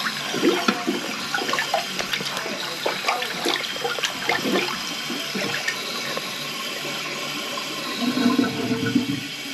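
Toilet flushing with a weak flush: water rushing and gurgling down the bowl, with a louder gurgle near the end. The handyman suspects something lodged in the drain line is restricting it.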